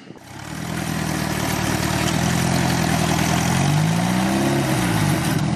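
An engine running, fading in during the first second, then revving up about three and a half seconds in, dropping briefly and picking up again near the end.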